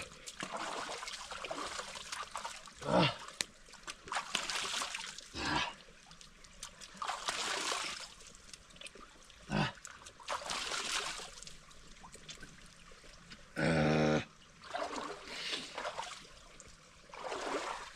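Water splashing and trickling with a string of sharp breaths from a man lowering himself into ice-cold, knee-deep stream water. A short voiced groan comes near the end.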